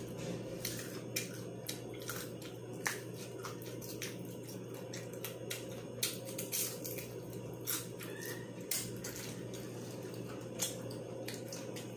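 Close-miked chewing of a crispy fried chicken wing: irregular crunchy clicks and wet mouth sounds.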